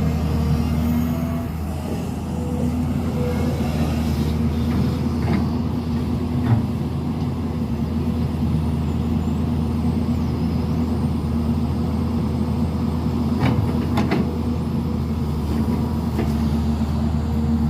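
Heavy diesel engine of construction machinery running steadily with a low hum, with a few short knocks about six seconds in and again near fourteen seconds.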